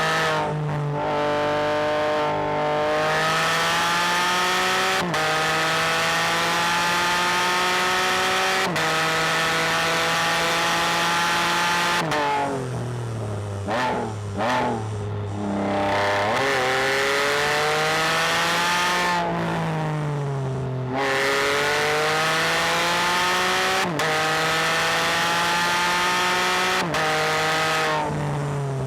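Can-Am Spyder F3-S's 1330 cc Rotax three-cylinder engine, with the catalytic converter deleted, revving hard through the gears. The pitch climbs and drops sharply at each quick upshift, and twice it falls away with short blips as the throttle is rolled off for corners before pulling up again.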